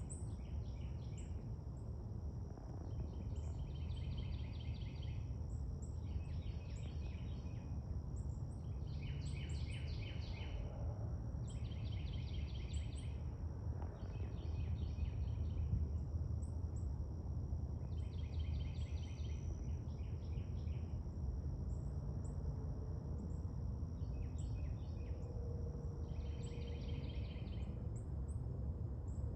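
Night insect chorus: a rasping, pulsed call repeating in bursts of about a second, roughly every two seconds, over a steady high-pitched insect drone. A constant low rumble lies underneath.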